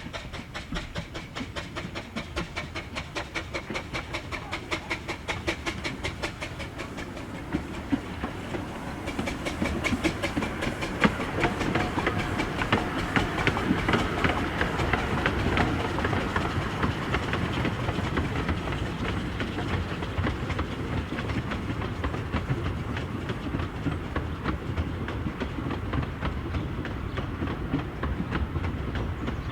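A 15-inch gauge miniature railway train running along the track, its wheels clicking rapidly and evenly over the rail joints. About ten seconds in, the running noise grows louder and denser.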